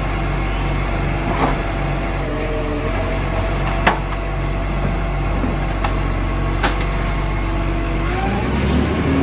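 Engine running steadily, with a few sharp clicks; it revs up, rising in pitch, near the end.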